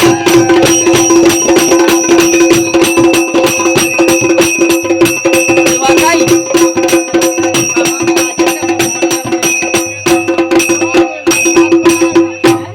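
Loud Bundelkhandi Diwari folk music: fast, dense drumming with metallic jingling over a steady held note, breaking off briefly near the end and then stopping suddenly.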